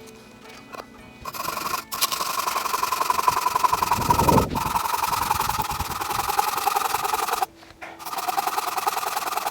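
A saw cutting through firewood, a continuous rasping whose note slowly sinks as it cuts. It stops briefly near the end, then starts again.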